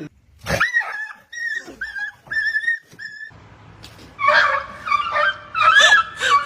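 Dog whimpering and yipping: a run of about five short high-pitched cries, then a louder burst of overlapping cries about four seconds in.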